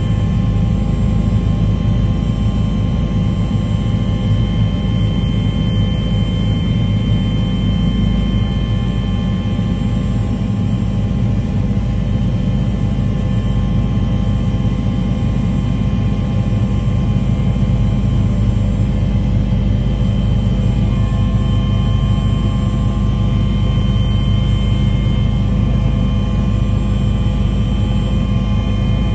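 Steady, unbroken engine drone: a loud low rumble with several steady whining tones above it.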